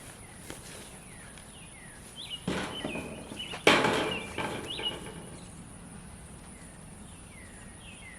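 Birds chirping over outdoor background noise, with a thin steady high hiss. A few rustling, scuffing noises come between about two and a half and five seconds in, the loudest at about three and a half seconds.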